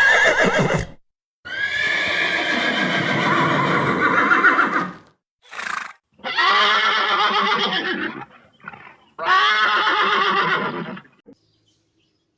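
Horse neighing: a series of loud whinnies, several long ones one after another with a couple of short calls between them.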